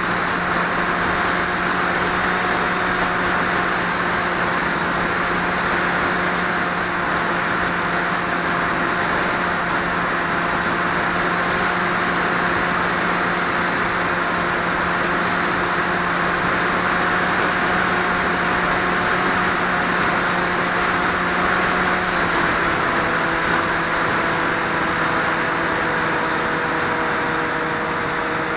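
Electric motor and propeller of a Swift II FPV flying wing running at steady throttle, recorded by the onboard 808 keychain camera, with a strong hiss of rushing air. The motor's tone steps slightly lower about three quarters of the way through.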